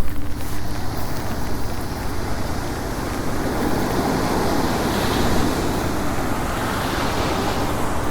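Ocean surf breaking on the beach, a wash of noise that swells in the middle and eases off again, over the steady rumble of wind on the microphone.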